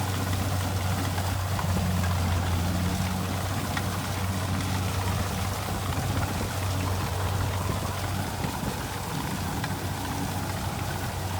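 Kubota rice combine harvester's diesel engine running steadily: a constant low hum under an even rushing noise.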